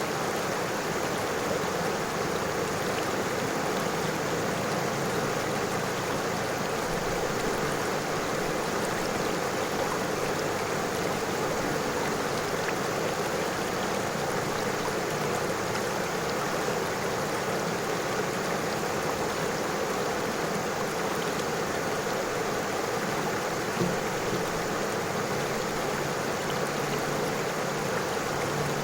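River water flowing steadily over stones: a continuous even rush and babble with no change in level.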